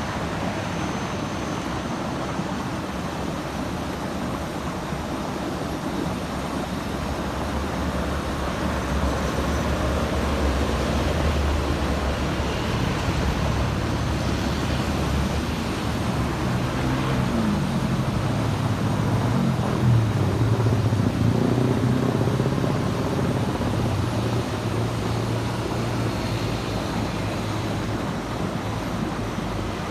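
Steady road traffic with heavy vehicles passing. A deep diesel rumble swells about a third of the way in, then a large engine's note rises and falls as it changes speed near the middle.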